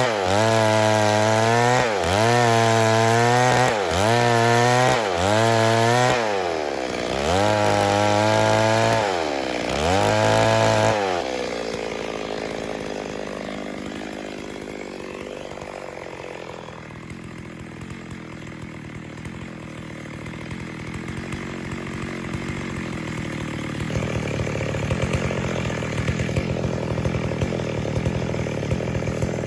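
Stihl MS 382 two-stroke chainsaw running hard, its pitch dipping and recovering about once a second. About eleven seconds in the engine's tone falls away, leaving a quieter, rougher noise that grows louder again near the end.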